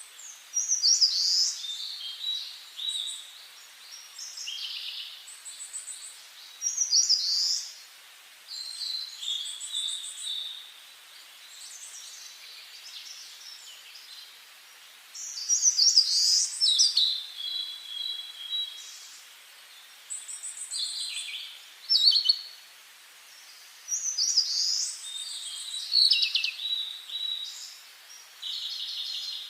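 Songbirds singing: a run of short, high-pitched song phrases with trills and quick falling notes, one after another with short pauses between.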